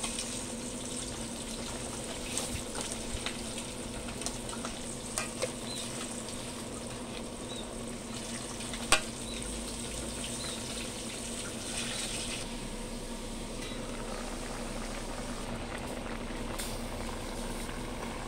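Sliced vegetables and pork sizzling in oil in a stainless-steel pot, stirred with a metal spoon that scrapes and taps the pot now and then, with one sharp clink about nine seconds in.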